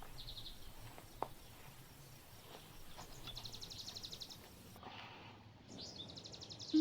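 Quiet outdoor ambience with a high, fast-pulsing trill call repeated about every three seconds, and a single sharp click about a second in.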